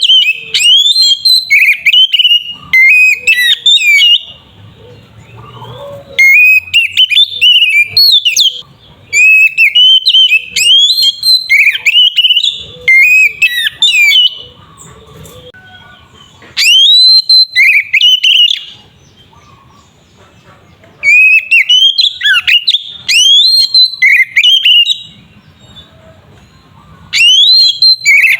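Oriental magpie-robin (kacer) singing loudly in bursts of rapid, rising whistled and chattering phrases. There are about six bursts of two to five seconds each, with short pauses between them.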